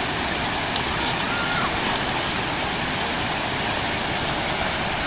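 Steady rush of stream water flowing over rocks near a waterfall.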